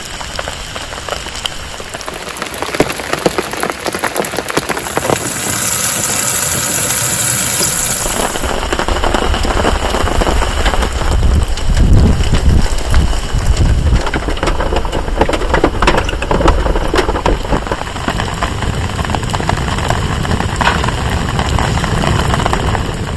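Steady heavy rain, a dense patter of drops on surfaces. A low rumble swells in partway through.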